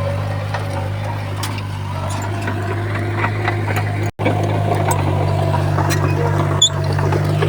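Komatsu bulldozer's diesel engine running steadily under load, with scattered clicks and knocks. The sound breaks off for a split second about four seconds in, then resumes.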